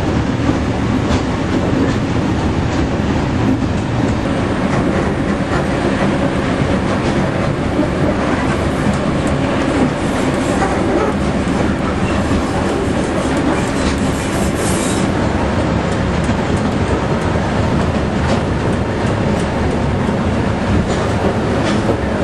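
2 ft 6 in narrow-gauge diesel train running, heard from aboard: a steady engine hum under the clickety-clack of wheels over rail joints. A brief high wheel squeal comes about fifteen seconds in.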